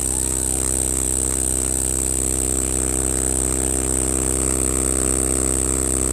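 Cicada calling: a continuous high-pitched buzz that holds steady without a break. A steady low hum runs underneath.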